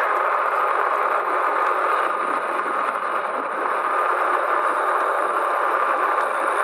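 Steady riding noise from an electric motorbike on the move: an even rush of air and tyre noise, with a thin steady whine running through it.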